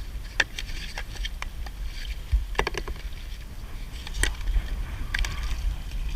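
Kayak paddling on open water: paddle strokes splashing and dripping, with a few sharp clicks and knocks, over a steady low rumble.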